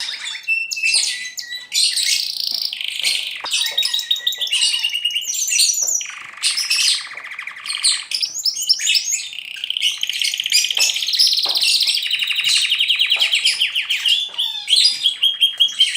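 Pet birds chirping and singing, dense quick notes with long rapid trills, several at once.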